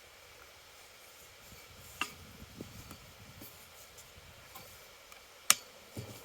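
Metal parts of a game hoist being handled during assembly: faint rubbing and small ticks, a click about two seconds in, and a sharp metallic click near the end.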